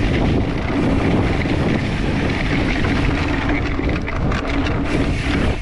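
Mountain bike ridden fast along a dirt trail: a steady rush of wind on the microphone over the rumble of the tyres, with a few sharp rattles about four seconds in.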